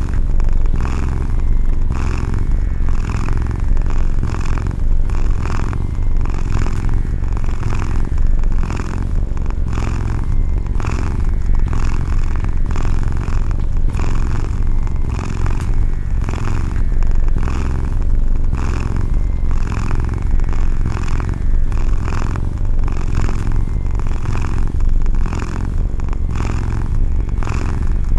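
Domestic cat purring steadily and close: a continuous low rumble that swells and fades with each breath, a little over once a second.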